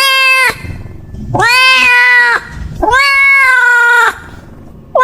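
Domestic cat meowing over and over in long, drawn-out meows, each held about a second, one after another about every second and a half.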